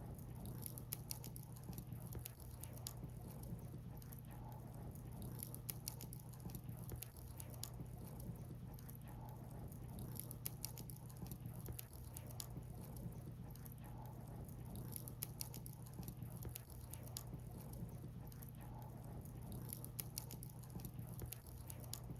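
Burning firewood crackling, with frequent sharp pops and snaps over a steady low rumble.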